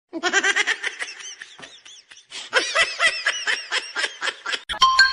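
Someone laughing in two runs of quick, high-pitched giggles with a short break between them, then a steady tone starts near the end.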